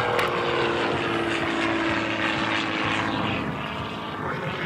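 Rebel 300 aerobatic plane's piston engine and propeller droning in flight, its pitch slowly falling over the first few seconds.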